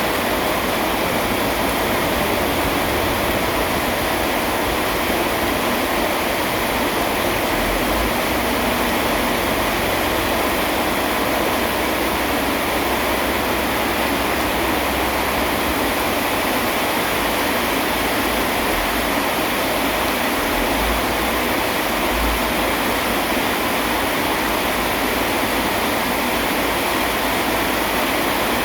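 Steady heavy rain, an even hiss with no break.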